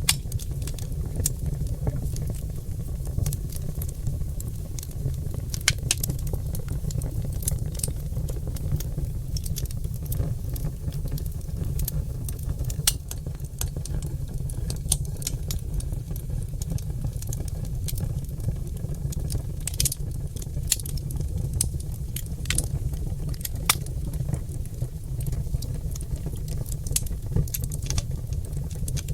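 Wood fire of oak logs crackling, with irregular sharp pops and snaps scattered several times a second over a steady low rumble.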